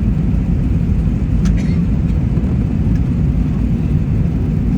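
Steady low rumble of an airliner's cabin noise, engines and airflow heard from inside the passenger cabin on the descent to landing.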